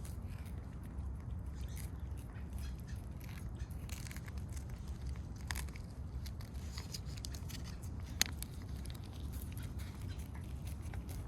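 Cats licking and chewing a lickable paste treat, a scatter of small wet clicks and smacks with one sharper click about eight seconds in, over a steady low rumble.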